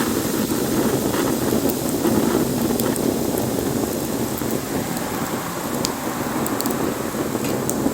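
Wood bonfire burning: a steady rushing of flames with a few sharp crackles and pops from the wood.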